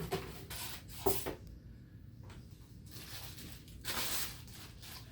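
Handling noises: short rustles, a sharp knock about a second in, and a longer rustle like plastic or packaging being moved about four seconds in.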